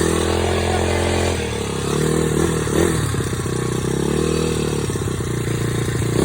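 Dirt bike engine running, its pitch rising and falling several times with the throttle.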